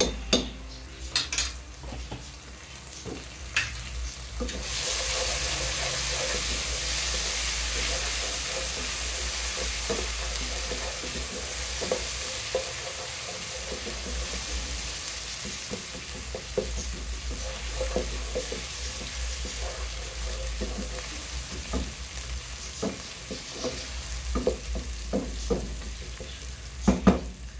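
Sliced onions with whole spices and ginger-garlic paste sizzling in hot oil in a non-stick pot while being stirred, with a spoon and then a wooden spatula scraping and knocking against the pot. The sizzle turns loud about four and a half seconds in, and a steady low hum runs underneath.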